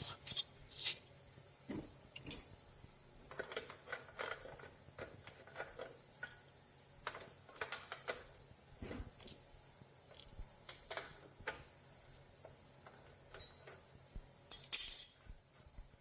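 Light metallic clinks and knocks, scattered irregularly, as small metal parts are taken off a motorcycle rear wheel hub and set down.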